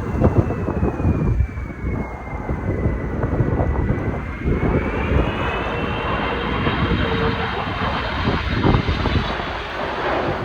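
Jet engine whine from a landing Airbus A330-323's Pratt & Whitney PW4000 turbofans. The whine dips in pitch, then rises again about five seconds in, over heavy wind buffeting the microphone.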